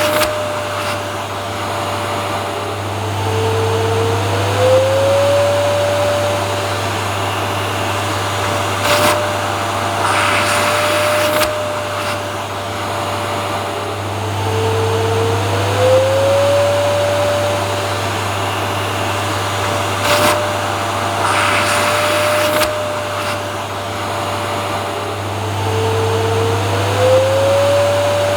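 Vacuum cleaner running steadily, its motor whine dipping in pitch and gliding back up about every eleven seconds, with a short rush of hiss a few seconds before each dip.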